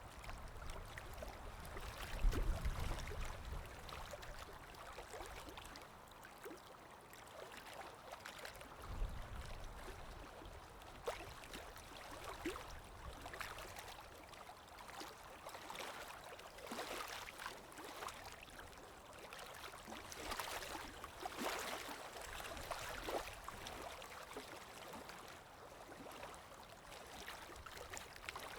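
Underwater water ambience: a steady wash of moving water full of small clicks and gurgles, with a low rumble about two seconds in and another around nine seconds.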